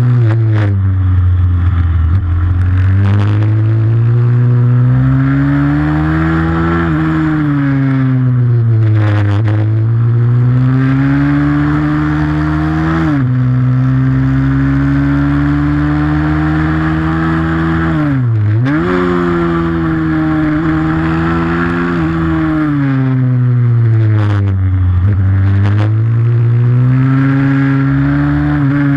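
Pit bike's single-cylinder four-stroke engine racing: its pitch climbs under throttle and drops sharply at each gear change or lift off the throttle, over and over, with one deep drop to near idle pitch about two-thirds of the way through.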